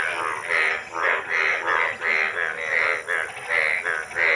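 Frogs croaking in a fast, steady series of pulsed calls, about three a second.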